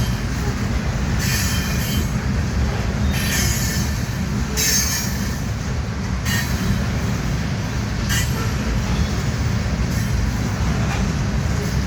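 Loaded gravel cars of a freight train rolling past with a steady low rumble, the wheels squealing briefly against the rails about five times.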